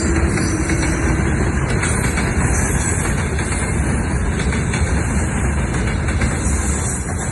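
Train hauled by a VL10U electric locomotive passing close by a level crossing: a steady, loud rolling rumble with faint clicks of wheels over the rail joints.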